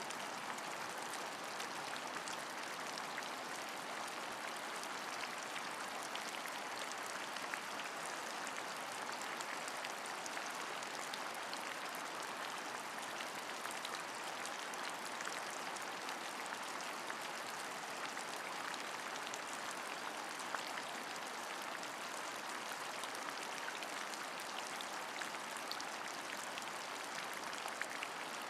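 Steady rain, an even hiss dotted with many small drop ticks, with no change in intensity.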